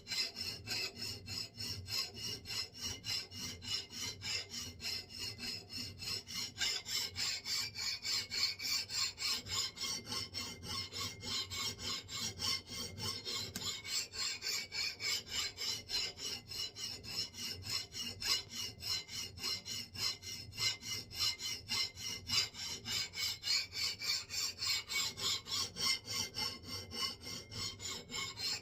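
Hand file stroked back and forth along the steel edge of a 3½-pound axe head held in a vise, a steady rhythmic high-pitched rasp as the edge is dressed.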